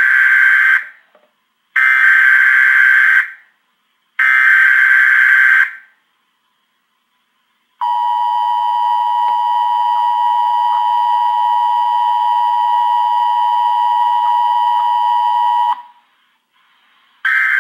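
Emergency Alert System broadcast tones: three bursts of digital header data, about a second and a half each, then the steady two-tone attention signal held for about eight seconds. A short end-of-message data burst begins just before the end.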